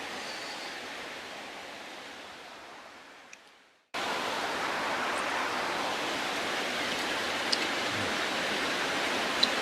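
Steady hiss of heavy rain falling outside, with a few faint clicks. It fades out to silence just before four seconds in, then cuts back in abruptly.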